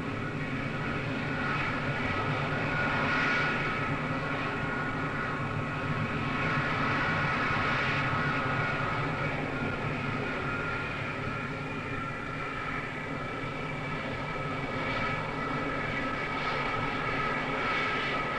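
Concorde 002's four Rolls-Royce/SNECMA Olympus 593 turbojets running at taxi power: a steady jet whine of several high tones over a rumble.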